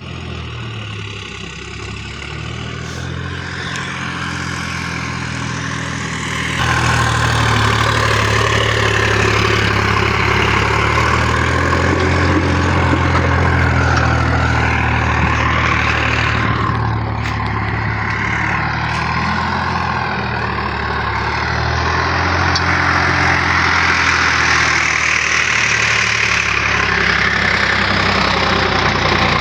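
Sonalika tractor's diesel engine running steadily, stepping up louder about six and a half seconds in.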